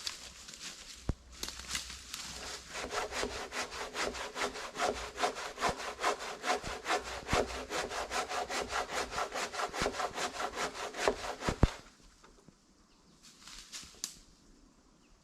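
Hand saw cutting through wood with quick, even back-and-forth strokes, stopping about twelve seconds in.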